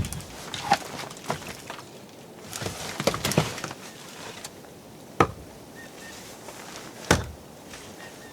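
A series of irregular knocks and thuds: a sharp one at the start, a cluster about three seconds in, and single strong ones about five and seven seconds in.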